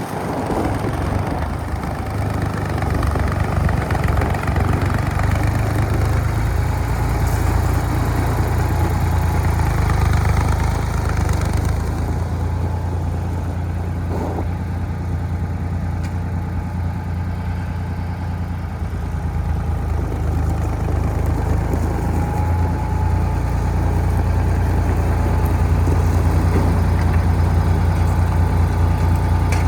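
Ford 4610 tractor engine running steadily at idle, a continuous low, even engine hum that eases slightly midway and picks up a little near the end.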